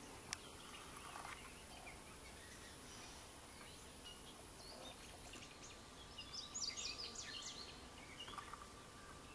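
Faint background ambience with a quick run of small bird chirps about six to seven and a half seconds in, and one sharp click near the start.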